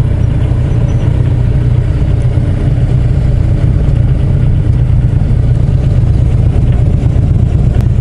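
Motorcycle engine idling steadily with a loud low rumble, which cuts off suddenly right at the end.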